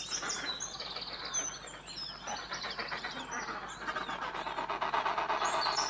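Many small birds chirping and twittering at once, a dense overlapping chatter of short high calls that grows busier about four seconds in.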